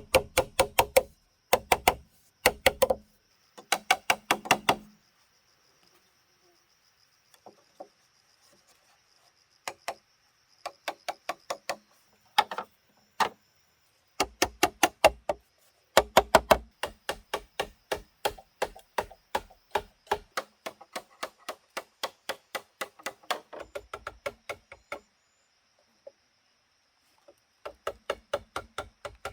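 Rapid chopping or knocking strikes on wood, several a second, coming in bursts with near-silent gaps of a few seconds.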